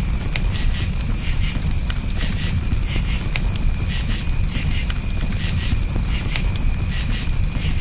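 Crickets chirping in short repeated pulses over a crackling campfire, with scattered sharp pops from the fire and a steady low rumble underneath.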